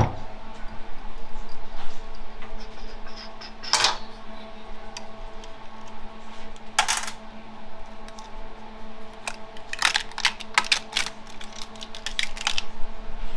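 Small metal transmission parts clinking and tapping as they are handled and set down during a teardown: a couple of single clinks, then a quick run of clinks near the end, over a steady low hum.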